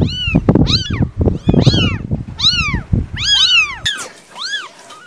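Cat meowing repeatedly: about six short meows, each rising then falling in pitch, some overlapping. Low rumbling noise underneath stops abruptly about four seconds in.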